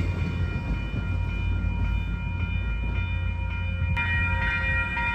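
MBTA commuter train's diesel locomotive running at the station with a steady low rumble. About four seconds in, a high steady multi-note tone starts and holds.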